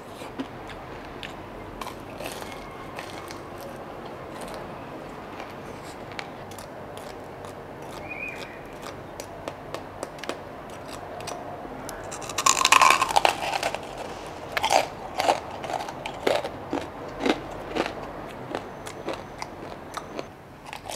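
Close-up biting and chewing of crispy fried pork belly with crackling skin: many small crackly crunches, a loud crunching bite about twelve seconds in, then a string of separate crunches as the chewing goes on.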